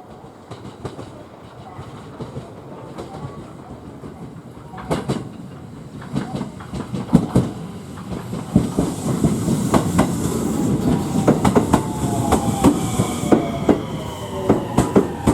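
Electric train approaching on the rails, growing steadily louder, its wheels clacking over rail joints in quickening clicks. Near the end a falling-pitch motor whine comes in.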